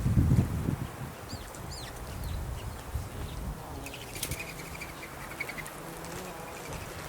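Birds calling: a few short high chirps, then a trilled call about four seconds in, over a low rumble in the first second.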